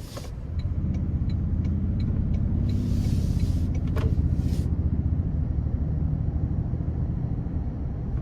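Toyota Tundra's twin-turbo V6 hybrid powertrain heard from inside the cabin, its low engine note swelling about half a second in as the truck pulls away, then holding steady. The note is partly the aggressive sound piped through the cabin speakers. A few faint clicks come near the start.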